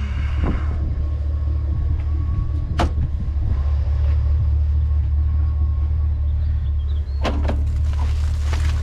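Pickup truck engine idling with a steady low rumble, broken by a few short knocks of scrap being handled, about three seconds in and again near the end.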